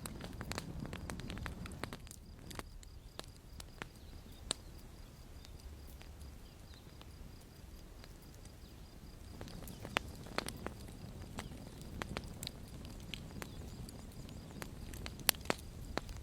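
Wood fire crackling, with irregular sharp pops and snaps over a low rumble of burning, the loudest pops about ten seconds in and near the end.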